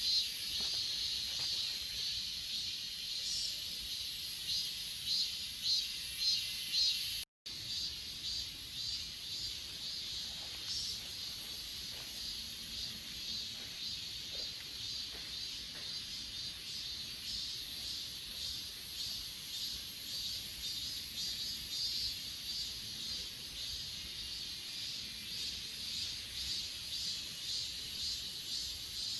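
Chorus of crickets and other grass insects chirping in fast, pulsing high-pitched trills that overlap continuously. The sound cuts out completely for an instant about seven seconds in.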